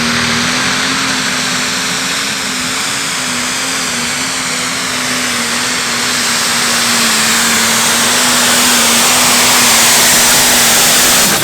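Turbocharged diesel pulling tractor running flat out under load as it drags the weight-transfer sled. Its engine holds a steady note under a loud rushing hiss that grows louder toward the end.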